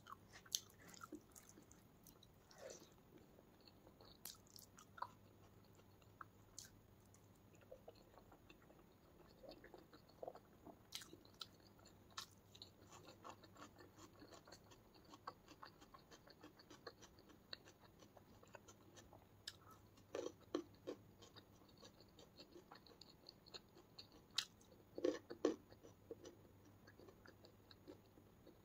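Quiet, close-miked chewing of a mouthful of rice and curry eaten by hand: soft wet clicks and lip smacks, with a few louder bites about two-thirds of the way in and near the end.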